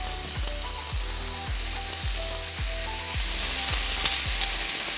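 Marinated vegetables sizzling and frying in hot olive oil in a preheated cast iron skillet as pieces are laid in with tongs. A steady hiss, with soft background music keeping a beat of about two strokes a second underneath.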